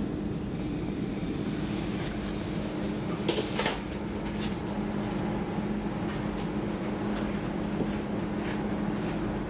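Stockholm commuter rail X10 electric multiple unit heard from on board: a steady hum over running noise, with a short burst of air hiss about three and a half seconds in.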